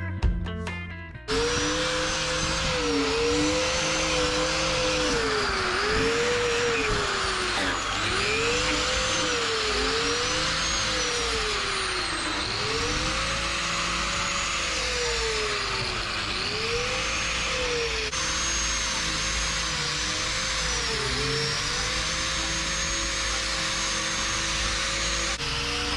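A handheld electric power tool runs continuously. Its motor pitch sags and recovers again and again, as it does when a running tool is pressed against the work and eased off.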